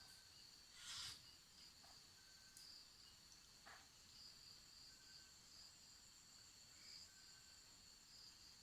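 Faint, steady high-pitched chirring of night insects, pulsing evenly, with a brief soft rustle about a second in.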